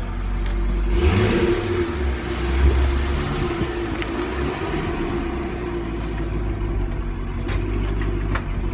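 2005 Chevrolet Corvette C6's 6.0-litre LS2 V8 running as the car pulls slowly out into the driveway. The engine note swells briefly about a second in, then settles back to a steady low-speed run.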